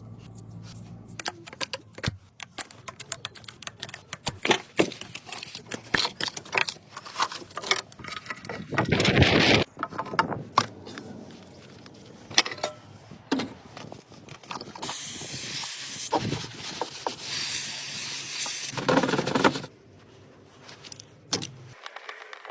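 Workshop handling sounds: many short metallic clicks and clinks of tools and parts being handled, broken by several bursts of hissing lasting a second or two each.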